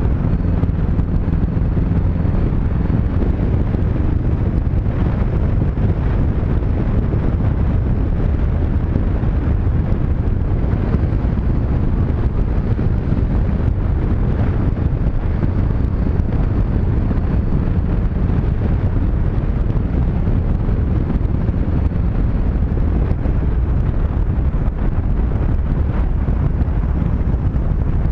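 Steady wind rush on the action camera's microphone at riding speed, with the Honda CB500X's parallel-twin engine running underneath.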